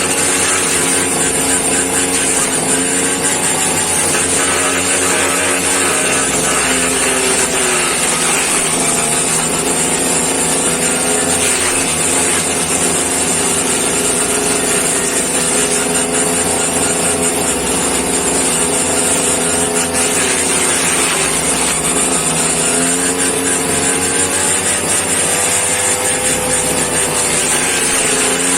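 Homemade grass chopper's small engine running steadily, its pitch sagging and picking up again several times.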